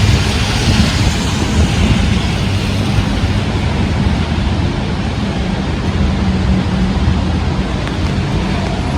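Heavy rain and strong wind, with the wind buffeting the microphone in a steady low rumble.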